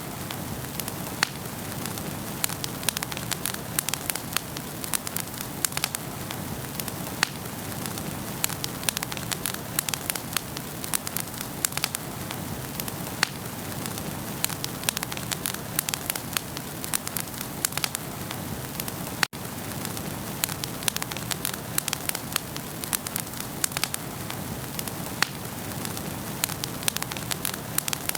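Wood fire in a fireplace crackling, with frequent sharp pops and snaps over a soft steady hiss. A momentary dropout cuts the sound about two-thirds of the way through.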